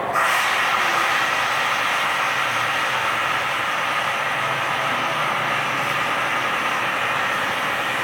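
Car wash equipment starting abruptly and running as a steady, loud hissing rush.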